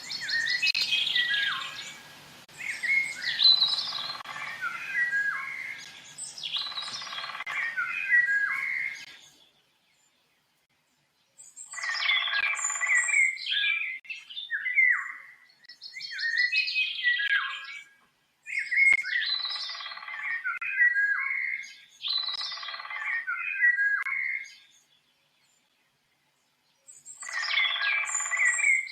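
A songbird singing in repeated short warbling phrases of about two seconds each, with quick rising and falling notes. The song breaks off twice into dead silence, about a third of the way in and again near the end.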